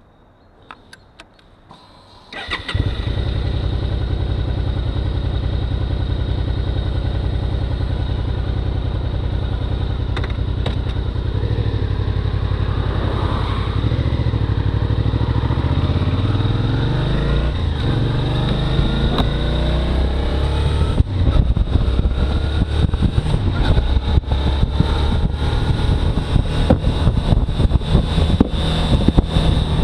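Suzuki V-Strom motorcycle engine starting a couple of seconds in and running steadily, then pulling away with rising revs through the gears. Wind buffets the microphone over the last third.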